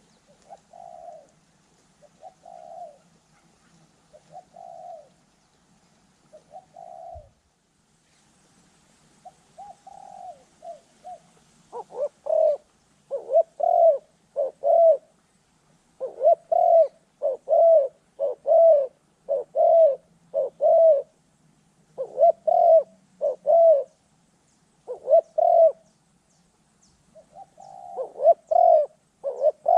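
Spotted doves cooing: soft coos every couple of seconds at first, then, after about twelve seconds, louder coos in quick runs, about two a second.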